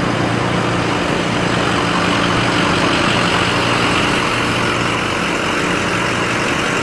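Fire truck engine running steadily, with no siren.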